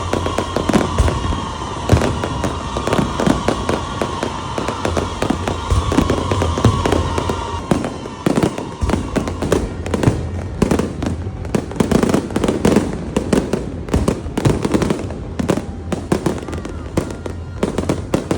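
Aerial fireworks display: a dense, continuous barrage of bangs and crackles with no break.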